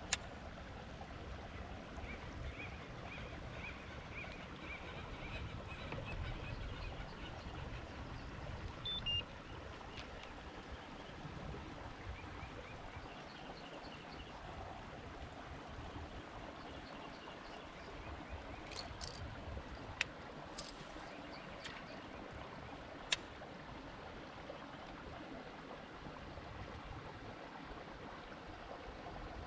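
Water lapping and trickling against a kayak hull, with a few sharp clicks scattered through.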